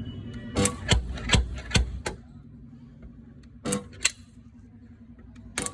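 A series of sharp knocks or taps: five in quick succession, then a pair about two seconds later and one more near the end, over a low steady hum.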